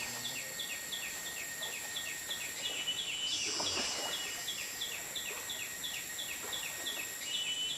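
Tropical rainforest chorus: a steady high-pitched insect drone with a regular chirping call repeated about three times a second.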